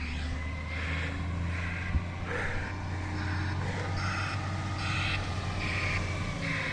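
Garbage truck engine running with a steady low hum, while a broadband reversing alarm pulses as short hissing bursts about every 0.8 seconds: the truck is backing up. A single sharp knock comes about two seconds in.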